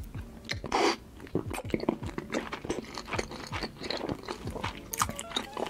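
Close-miked mukbang chewing of a mouthful of salmon drenched in thick white cream sauce: many quick wet clicks and smacks of lips and tongue, with one louder bite about a second in.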